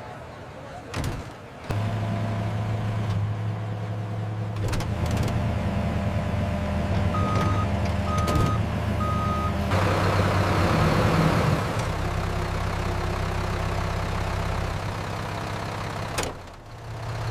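Road roller engine sound effect starting about two seconds in and running with a steady low hum. Three short reversing beeps come about seven seconds in, followed by a couple of seconds of hissing noise over the engine.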